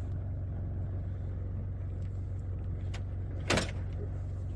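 Car engine idling with a steady low hum. One brief, louder noise cuts in about three and a half seconds in.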